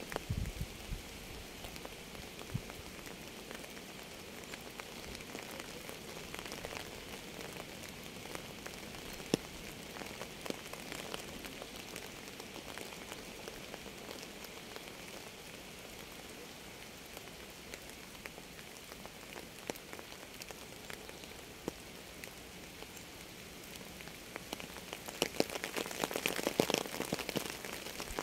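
Steady rain falling, with many individual drops hitting close by as sharp ticks; the drop hits grow denser and louder near the end.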